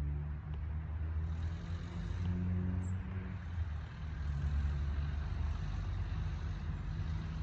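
Low, steady hum of a motor vehicle's engine running nearby, with a short high chirp about three seconds in.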